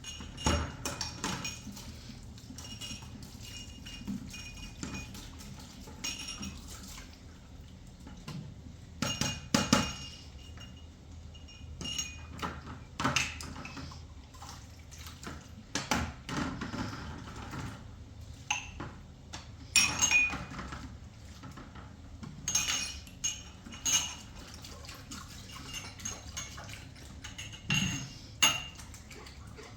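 Pots, dishes and utensils clinking and knocking irregularly, some strikes leaving a short metallic ring, as kitchenware is handled.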